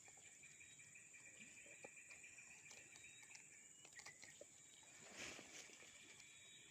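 Near silence with a faint, steady high-pitched drone of insects, and a few faint clicks.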